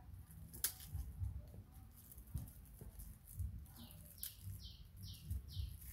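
A bird calls a quick run of five short, high, slightly falling notes a little under four seconds in, over faint low rustling and handling noise. A single sharp click comes about half a second in.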